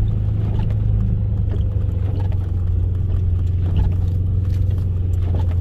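An off-road vehicle's engine running steadily, a low drone, with faint scattered knocks over it.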